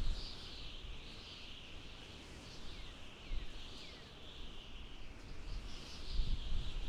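Outdoor nature ambience: a steady, wavering high chorus of birds or insects, with a few short falling bird calls a few seconds in. A low wind rumble grows louder near the end.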